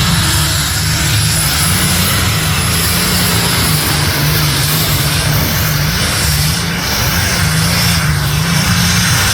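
A pulling vehicle's engine running at high power during a truck and tractor pull, a loud steady engine noise whose pitch wavers slightly.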